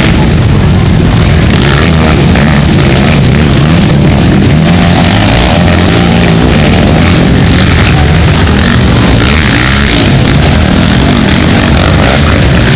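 Racing ATV engines revving hard and easing off, more than one at a time, their pitch rising and falling as the quads race past. Very loud throughout.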